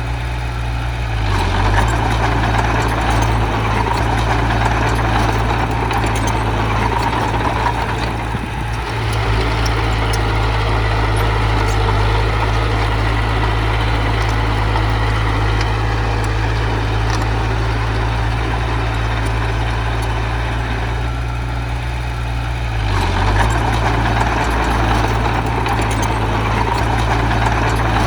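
Diesel engine of heavy earthmoving machinery running steadily, swelling in load about two seconds in and again near the end, with a brief easing around eight seconds.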